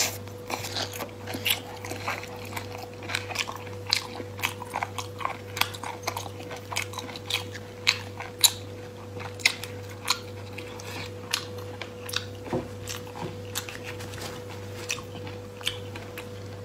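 A person chewing sea snail meat close to the microphone: a dense run of sharp mouth clicks, several a second, over a faint steady hum.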